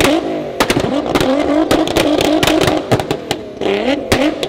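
Nissan GT-R R35's twin-turbo V6 being revved repeatedly, its note rising and falling, with a rapid string of sharp exhaust pops and bangs between and during the revs.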